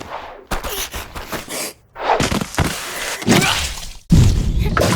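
Sound-designed action effects: a series of thuds and impacts, the loudest and deepest one about four seconds in.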